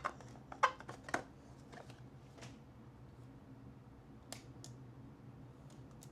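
Trading cards being handled: a few faint short clicks and scrapes in the first second or so and two more about four seconds in, over a faint steady low hum.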